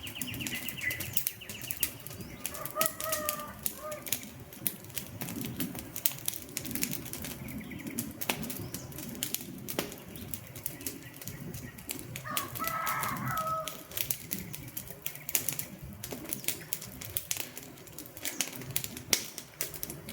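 Wood fire crackling and popping in rapid, irregular snaps over a low, steady rumble of flame. Two short pitched calls come through faintly, a few seconds in and again past the middle.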